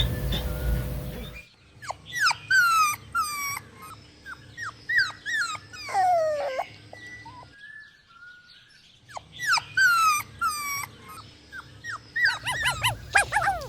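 Puppies whining and yelping: a run of short, high whimpers that fall in pitch, a quieter pause about eight seconds in, then quicker, denser yips near the end. A louder, low sound at the very start cuts off abruptly about a second and a half in.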